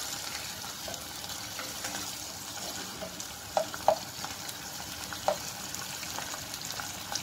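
Onion and capsicum pieces sizzling in hot oil and soy sauce as they are sautéed and stirred with a plastic spatula. A few short knocks of the spatula against the pot come about halfway through.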